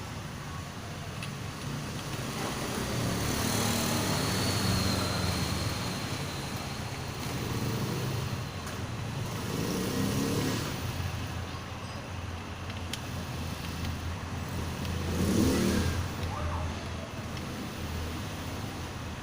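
Motor vehicles passing by over a steady low engine hum, the sound rising and fading several times, loudest near the end.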